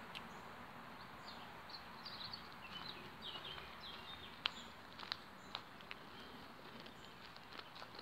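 Small birds chirping in short high phrases over a steady open-air hiss, with a few sharp clicks about halfway through.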